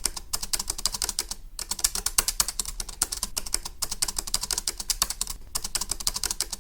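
Rapid, uneven clicking, several clicks a second, with two short pauses.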